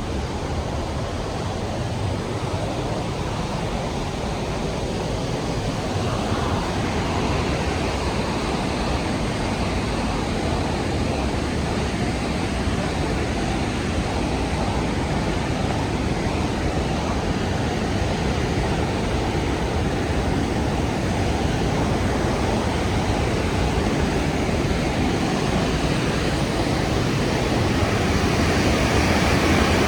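Rhine Falls waterfall: the steady rush of a large volume of falling water, growing a little louder about six seconds in and again near the end.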